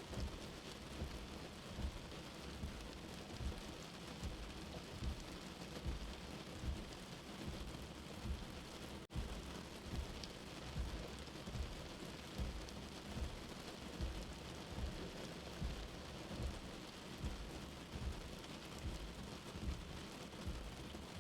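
Steady rain heard as if from inside a shelter, with a soft, low heartbeat thumping regularly underneath, about once every 0.8 seconds. The sound dips out for an instant about nine seconds in.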